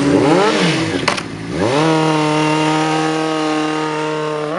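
Motorcycle engine revving: a quick blip up and back down, a brief break, then the revs climb again and hold steady and high for about three seconds.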